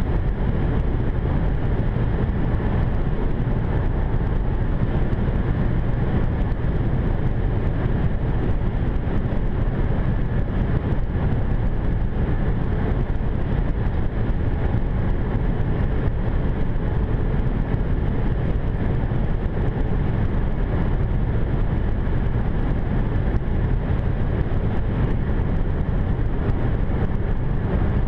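Road noise inside the cabin of a BMW 550i (F10) running at steady speed: a steady low rumble of tyres, wind and its twin-turbo V8, with no rise or fall in pitch.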